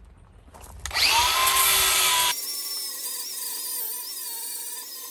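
Angle grinder spinning up about a second in with a rising whine, then running loud. From a little past two seconds its whine wavers in pitch as it grinds steel.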